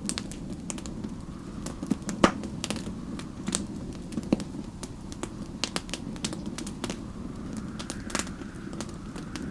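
Wood fire crackling, with irregular sharp pops and snaps, the loudest about two seconds in, over a steady low rush. A faint whistling wind swells near the end.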